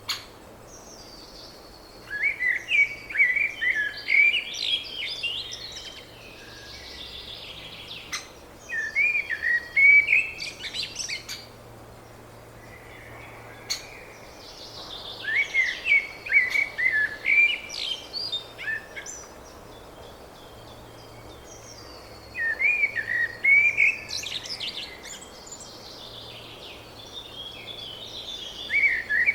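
A songbird singing in repeated phrases of three to four seconds, about every six or seven seconds, with a single sharp click right at the start.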